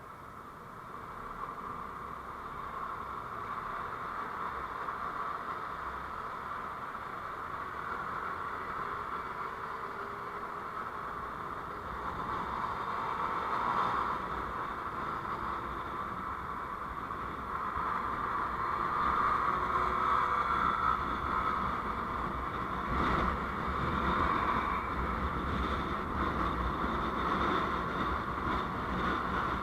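Vehicle driving noise: steady road and engine noise heard from aboard a moving vehicle, growing gradually louder, with a brief knock about three quarters of the way through.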